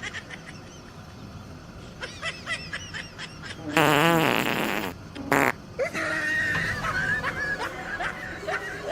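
A long, loud fart sound with a rapidly wobbling pitch, lasting about a second, about four seconds in, followed by a short second burst.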